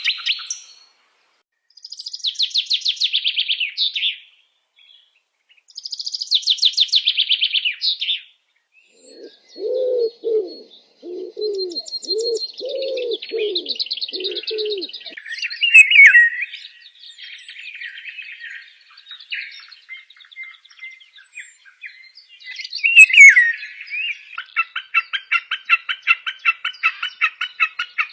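Songs and calls of several kinds of forest birds, one after another: two fast high trills, then a run of about six low hooting notes, a few high sweeping calls, and near the end a rapid series of repeated notes, several a second.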